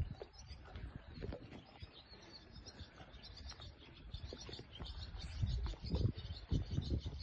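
Small birds chirping repeatedly in the background, with a run of low, uneven thumps from about five seconds in.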